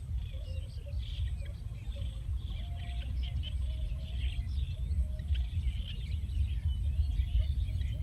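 Small birds chirping over and over above a steady low rumble.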